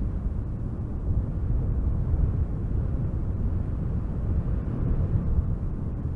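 Strong wind gusting through spruce trees: a steady low rushing noise that swells a little now and then.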